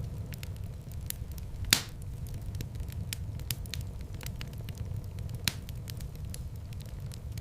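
Wood fire in a fireplace crackling: a steady low rumble of flames under scattered sharp crackles, with one loud pop about two seconds in and a smaller one later.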